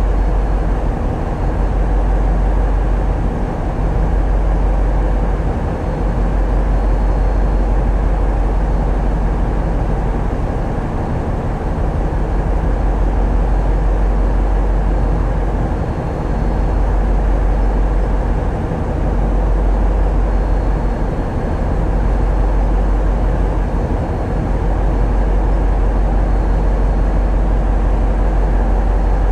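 Tugboat's diesel engines running with a steady low drone, heard aboard.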